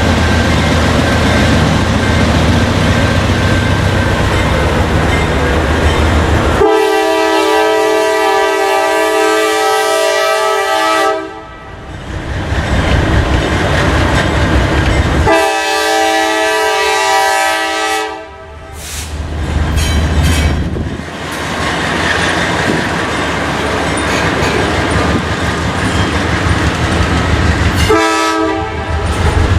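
Diesel freight locomotive's air horn, heard over the low rumble of the approaching train. It sounds two long blasts and then a short one, the grade-crossing signal pattern, with the final long blast following.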